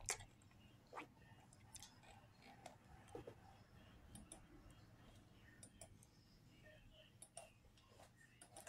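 Faint, scattered wet mouth clicks and smacks of someone chewing a bite of burrito, with a sharper click at the very start and another about a second in.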